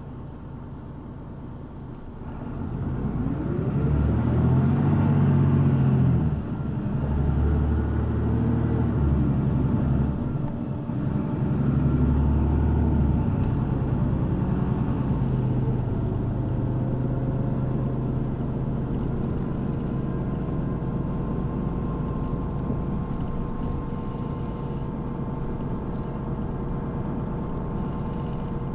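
City bus diesel engine pulling away from about two seconds in. The pitch climbs and drops back twice at gear changes, then the engine runs steadily at cruising speed, heard from inside the bus.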